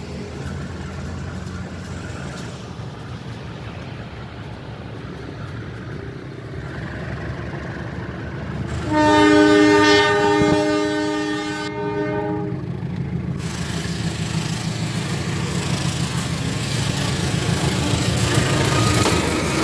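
CC 203 diesel-electric locomotive running with a steady low rumble. About nine seconds in, a loud locomotive horn sounds one long chord for about three and a half seconds. The engine rumble grows louder toward the end.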